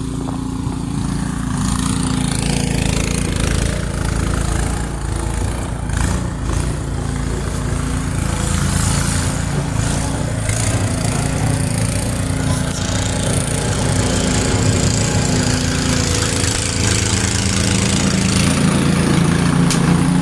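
Small engine of a snowblower running steadily as it clears snow, with a hiss above it.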